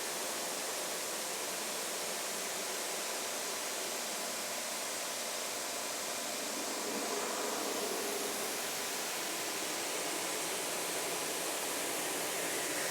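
Pressure washer spraying a steady stream of water onto a car's paint, rinsing off a water spot remover after its dwell time; an even hiss.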